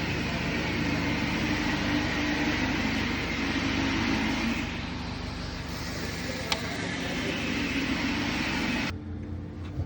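Steady mechanical vehicle noise, a hiss over a low rumble, with one sharp click about six and a half seconds in; it cuts off suddenly near the end, leaving a quieter low hum.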